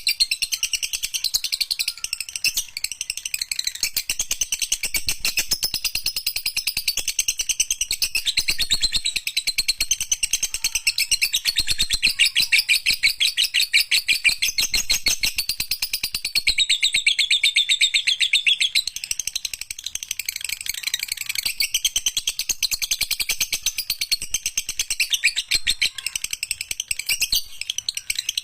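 Lovebird singing its long, unbroken 'ngekek' chatter: a high-pitched stream of very rapid chirps without a pause.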